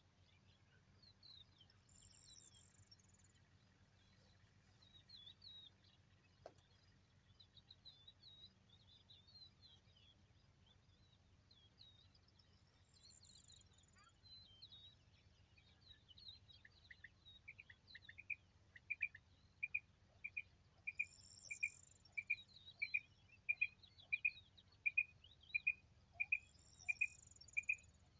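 Birds twittering and chirping, joined a bit past halfway by a repeated single clear call note, about one and a half a second, that grows louder toward the end.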